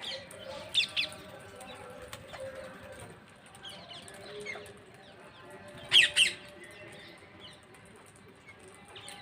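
Parrots giving short, sharp screeching calls: a pair about a second in, fainter calls in between, and the loudest pair about six seconds in.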